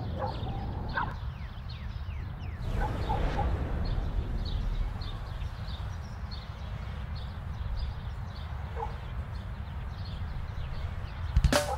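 Outdoor ambience of birds chirping, short falling chirps repeating every fraction of a second, over a low steady rumble, with a few lower animal calls scattered through. Music comes in suddenly just before the end.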